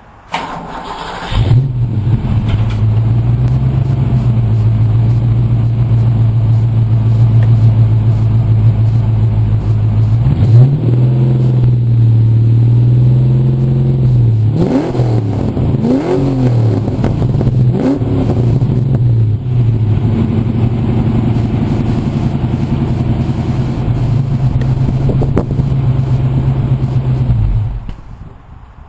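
1989 Ford Mustang GT's 5.0-litre V8 cranked and started, idling through BBK shorty headers and a 2.5-inch MagnaFlow stainless exhaust with X-pipe. It is blipped once about ten seconds in, then revved in several quick blips between about fifteen and nineteen seconds, and settles back to a steady idle before being shut off near the end.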